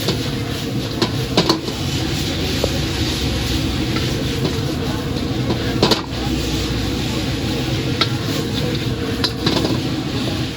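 Chicken lollipops sizzling in a pan as they are stirred and tossed, with a few sharp clinks of the spatula against the pan.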